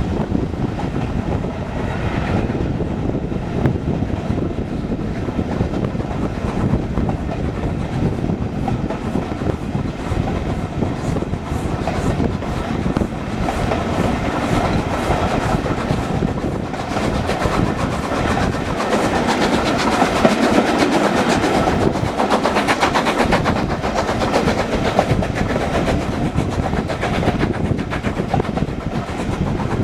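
Train running on the rails, a steady rumble with the wheels clattering over the rail joints, growing louder a little past the middle.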